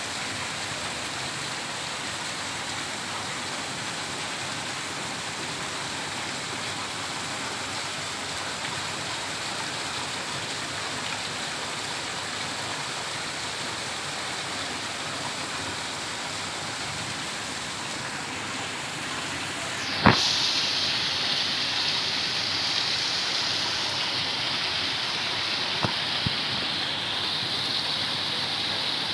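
Heavy rain falling steadily, a continuous even hiss. About twenty seconds in there is a single sharp knock, after which the hiss changes tone, with fainter small clicks a few seconds later.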